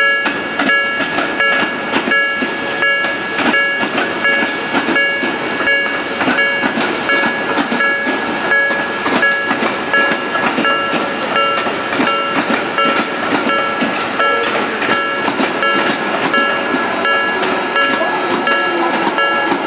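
Tobu commuter train rolling past a level crossing, its wheels clacking over the rail joints, while the crossing's warning bell rings steadily throughout.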